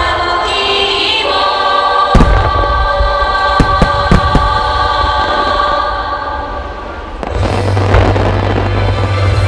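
Aerial fireworks shells bursting in sharp booms, the loudest about two seconds in and a quick run of smaller reports soon after, over music played across the show ground. Near the end a dense rumble of many bursts builds up.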